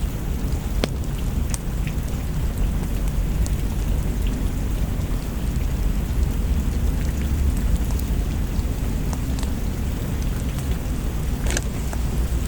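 Steady rain with a deep continuous low rumble beneath it, and a scattering of sharp clicks, one a little louder near the end.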